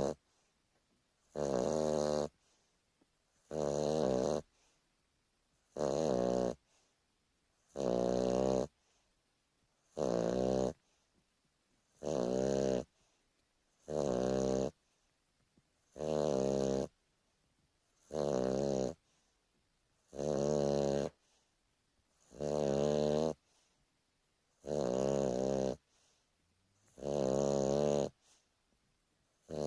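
Boston Terrier snoring steadily in its sleep: an even-pitched snore about every two seconds, each lasting under a second, with quiet breaths between. Boston Terriers are a short-nosed breed, prone to snoring.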